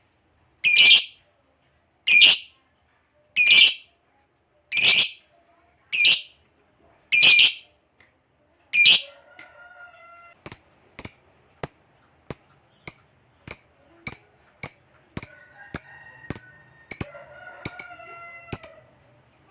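Lovebird calling: loud, shrill calls repeated about once every second and a half, changing about ten seconds in to shorter, higher chirps about two a second, with fainter chirping from other birds behind.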